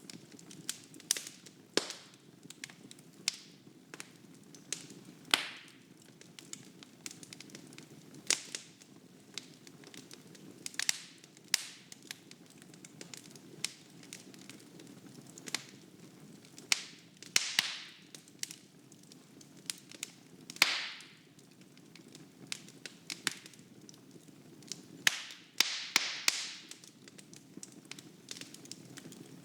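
Wood fire crackling in a fireplace: irregular sharp pops and snaps over a low steady rumble of the flames, with a few short hissing flare-ups.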